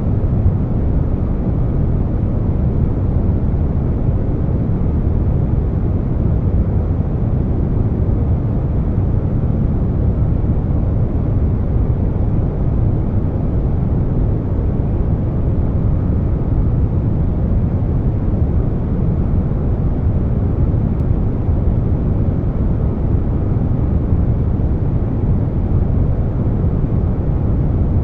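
Air conditioner noise blended with brown noise: a steady, deep, even rumble with its weight in the low end and little treble, unchanging throughout.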